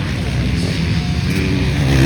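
Motocross bike engines running on the track, one revving up and getting louder toward the end.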